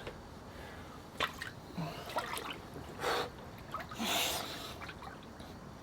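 A man breathing hard in short, sharp breaths while sitting in an ice-cold plunge tub, with small water splashes and drips; the two longest breaths come about three and four seconds in. The breathing is a reaction to the cold water.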